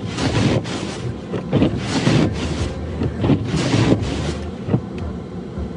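Snow shovel scraping and pushing through snow in about half a dozen irregular strokes, which stop near the end, over a steady low rumble.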